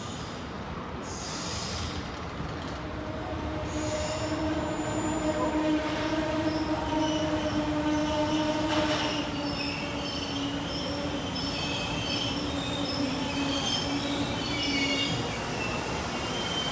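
Taiwan Railways electric train running through a station, with a steady motor hum and high, wavering wheel squeal that grows louder over the first half.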